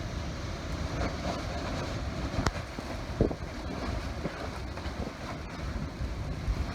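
Wind blowing across the microphone, a steady low rushing rumble, with a sharp click about two and a half seconds in.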